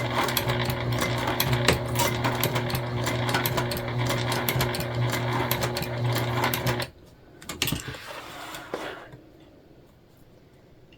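Sewing machine running steadily, its motor hum laced with rapid needle clicks as it top-stitches webbing onto jelly vinyl, then stopping abruptly about seven seconds in. A few soft knocks and rustles follow.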